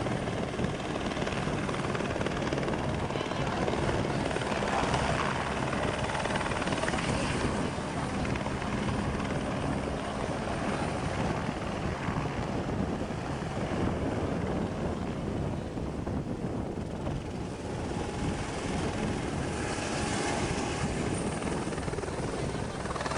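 Helicopter rotor and engine running steadily, a continuous chopping whir with no breaks.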